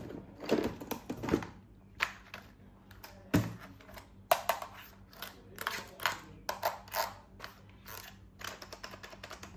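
Plastic toys and packaging being handled during an unboxing: a string of irregular clicks, taps and clacks, some sharper than others.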